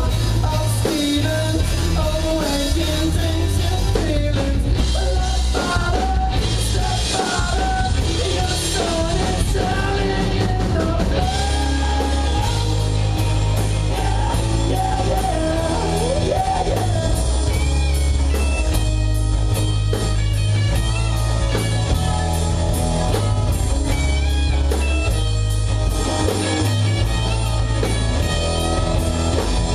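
Rock band playing live, a singer over electric guitar, bass and drums. About halfway through the singing stops and the band carries on, with a steady cymbal beat.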